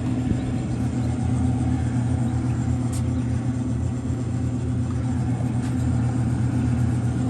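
Steady low mechanical hum, with a single faint click about three seconds in.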